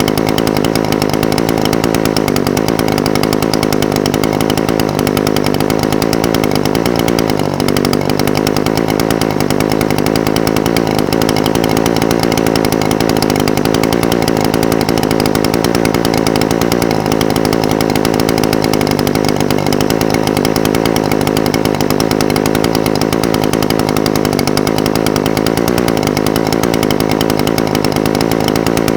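Echo SRM-420TES brush cutter's two-stroke engine idling steadily.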